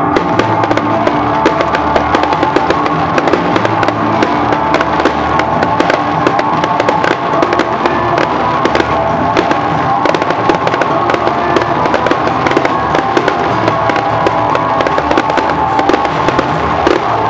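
Fireworks crackling and popping in rapid, dense succession, over music playing.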